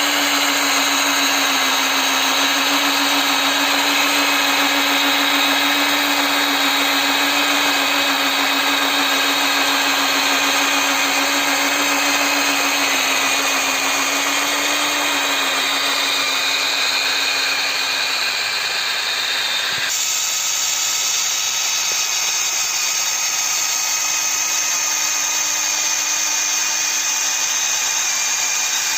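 Small electric motors of a homemade mini model Kubota DC-93 combine harvester whining steadily as it runs through rice. The pitch sags a little midway, and the sound changes character abruptly about twenty seconds in.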